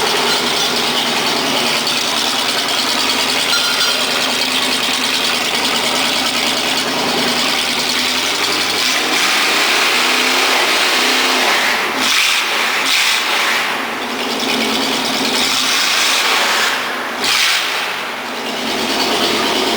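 Oldsmobile 350 5.7-litre V8 running, exhausting through Flowmaster mufflers. Its note rises and falls a few times in the second half.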